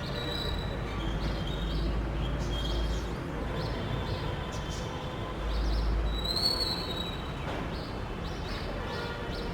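Birds chirping repeatedly, short high notes about twice a second, with one louder whistled call a little past the middle. A low rumble sits underneath and swells twice.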